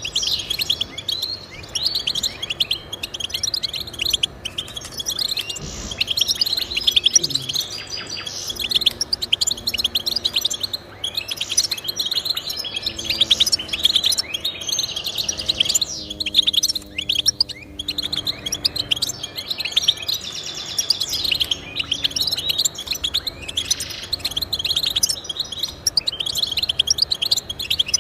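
Goldfinch singing: a long, fast run of high twittering chirps and trills with hardly a break.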